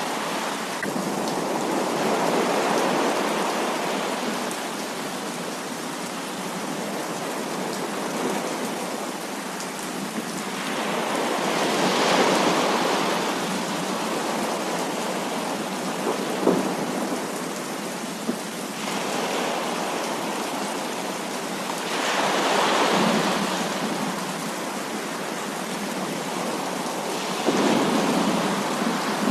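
Heavy rain falling steadily as a dense hiss, with thunder swelling up and dying away several times.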